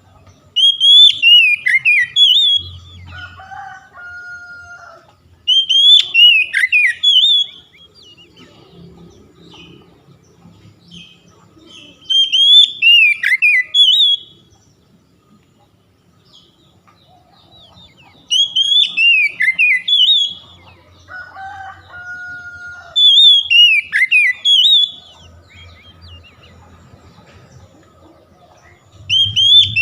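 Recorded oriental magpie-robin (kacer) song: a loud phrase of quick, falling whistled notes repeated about every five to six seconds. Twice a phrase is followed by a lower, held two-note whistle.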